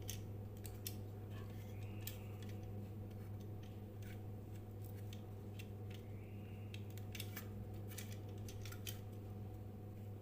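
Steady low electrical hum, with irregular sharp clicks and snips of small hand tools at work.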